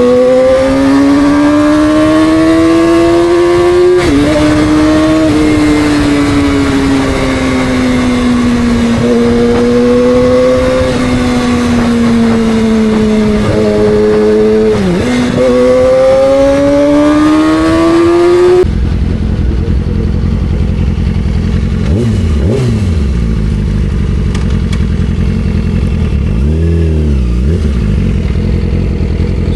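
2006 Yamaha R6's inline-four engine running under way, its pitch rising and falling with the throttle, with a brief sharp drop about halfway through. About two-thirds through, the sound switches abruptly to a loud, low rushing noise in which the engine is barely heard.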